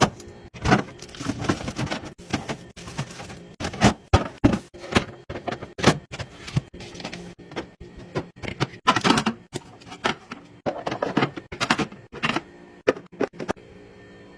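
Food containers and packaging being handled while a fridge is stocked: a quick, irregular string of clicks, knocks, taps and rustles that stops about a second before the end, leaving a faint steady hum.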